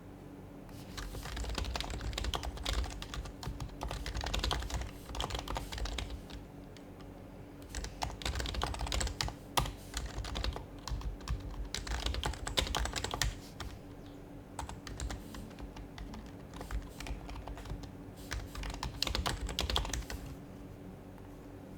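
Fast typing in bursts on an HHKB Professional HYBRID Type-S keyboard with noise-dampened Topre electrocapacitive keys, starting about a second in. It stops briefly twice and ends shortly before the close.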